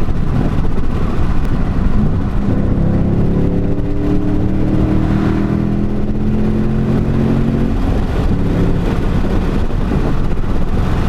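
Ford Mustang's engine running at a steady cruise, heard from inside the car over road noise. The engine note dips briefly about two seconds in and changes pitch again near eight seconds.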